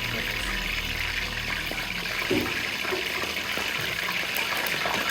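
Chicken tenders frying in hot oil, a steady sizzle.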